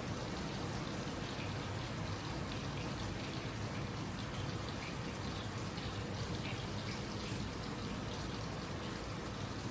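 Food frying in hot oil in a pan: a steady sizzle with faint scattered crackles.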